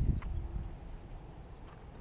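Wind buffeting the microphone in low gusts that die away within the first half second, leaving a faint steady hiss.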